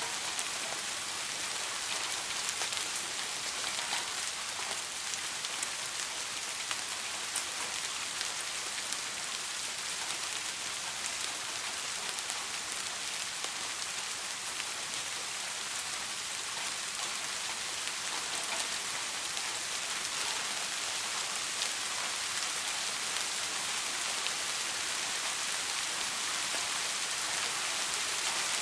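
Steady soft rain falling, an even hiss with faint scattered drop ticks and no thunder.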